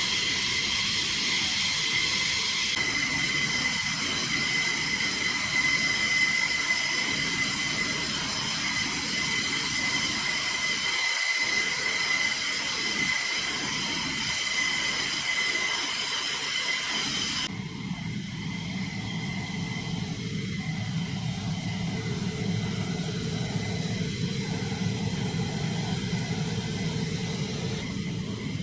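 F-15E Strike Eagle jet engines running with a steady high-pitched whine over hiss. About 17 seconds in the sound changes abruptly to a lower rumble with less whine.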